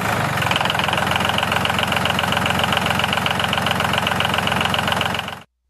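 Homemade miniature toy tractor running as it drives along pulling its trailer: a steady, fast, even mechanical chatter that cuts off suddenly near the end.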